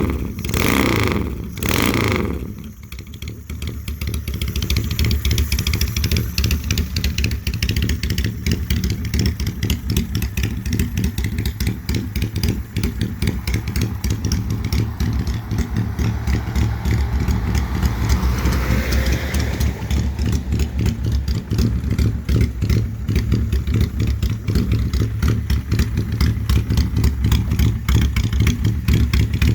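Honda Steed chopper's 600 cc V-twin running loudly through a custom exhaust. Two quick throttle blips in the first two seconds, then a steady lumpy idle.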